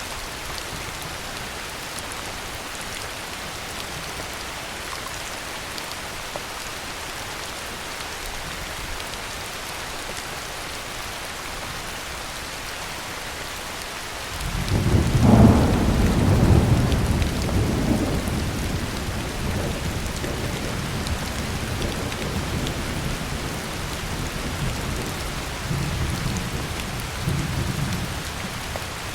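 Steady heavy rain. About halfway through, a roll of thunder starts suddenly, peaks for a few seconds, and rumbles on more softly to the end, with a couple of smaller swells near the end.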